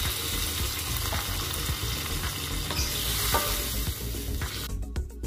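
Fried anchovies, petai and chilies sizzling in a wok as water is poured in and stirred with a wooden spatula, the spatula scraping the pan. About four and a half seconds in the sizzling cuts off and music with a quick, even beat begins.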